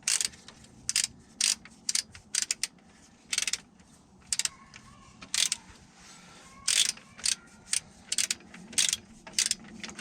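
Hand ratchet wrench clicking in short back-strokes as engine bolts are run down snug before final torquing: quick clusters of clicks coming irregularly, one to three times a second.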